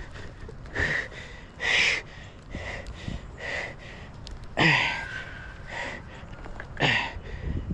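A man breathing hard in short, heavy puffs about once a second, with a strained grunt or two, as he exerts himself hauling his body up onto a limb.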